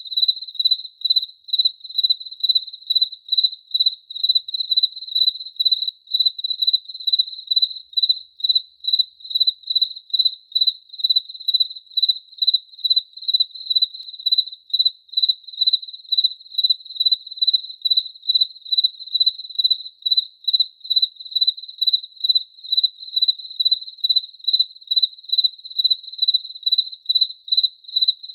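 A cricket chirping in a steady, even rhythm, about two high-pitched chirps a second.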